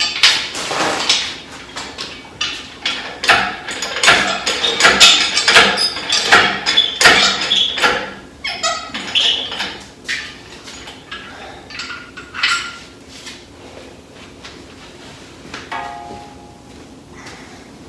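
Metal parts and tools clanking and clattering as they are handled, in a dense run of knocks and clinks for about eight seconds that then thins to scattered clinks.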